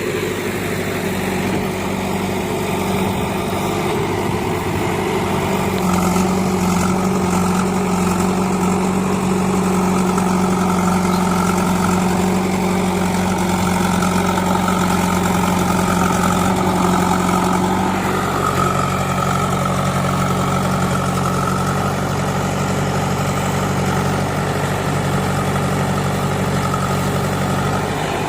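Diesel engine of a JCB 3DX backhoe loader running steadily while it works. Its note grows stronger about six seconds in and eases back about eighteen seconds in.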